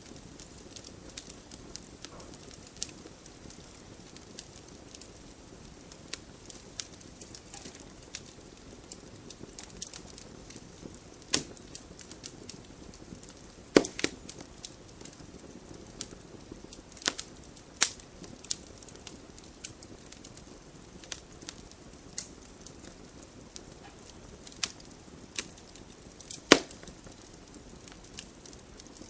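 Wood fire burning in a fireplace: a steady low rush of flame with frequent irregular crackles and sharp pops of burning logs, the loudest pops about halfway through and again near the end.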